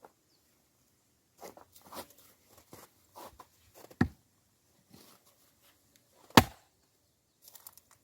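An axe striking a log twice while splitting firewood, about two and a half seconds apart, the second blow the louder. Quieter scuffing and crunching in between, from moving about and handling the wood.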